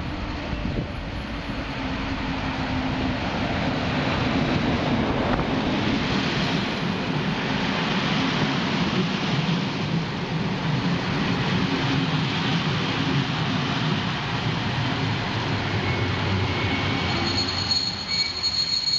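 DB Regio locomotive-hauled passenger train pulling into the platform, its coaches rumbling loudly past at slowing speed. Near the end a high, steady ringing squeal joins in as the brakes bring it toward a stop.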